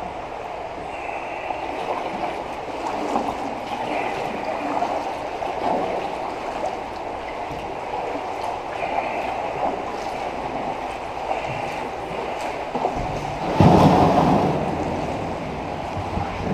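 Kayak paddles splashing and water churning inside a tunnel, with faint high squeaks now and then and a louder surge of splashing about three-quarters of the way through.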